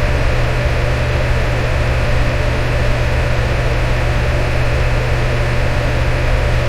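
Electric fan running steadily: a constant whooshing rush of air over a low motor hum.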